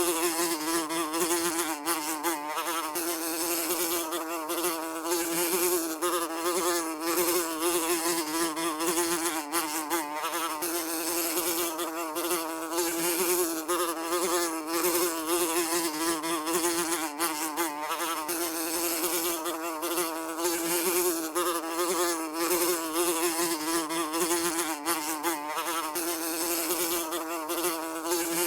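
Housefly buzzing continuously in flight, a steady droning hum that wavers slightly in pitch as it moves.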